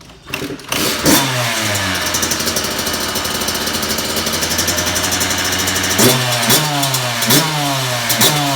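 A Kawasaki KX two-stroke dirt bike engine starting about a second in and running steadily, then revved in a quick series of throttle blips from about six seconds on, each falling back in pitch.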